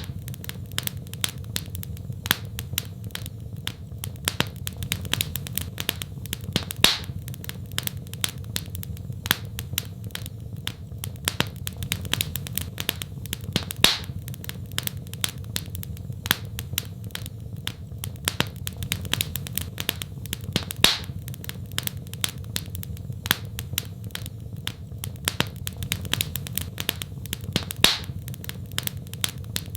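Wood fire crackling in a fireplace: a steady stream of small pops and snaps over a low rumble, with a louder pop about every seven seconds.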